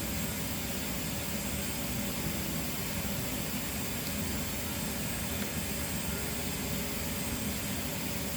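Steady air-like background hiss with a low rumble, unchanging and with no distinct events.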